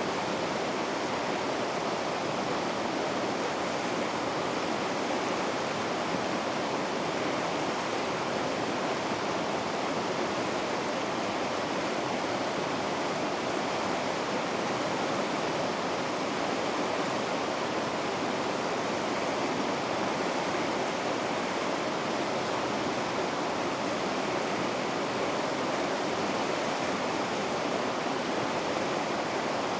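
Steady rush of white water in river rapids, an even, unchanging noise.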